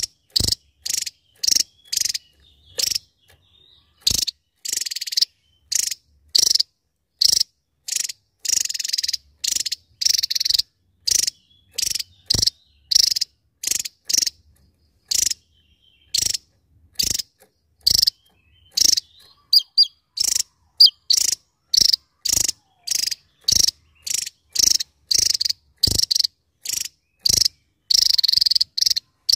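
Javan tesia calling: a long run of short, buzzy notes repeated about twice a second, with a few brief thin whistles around two-thirds of the way through.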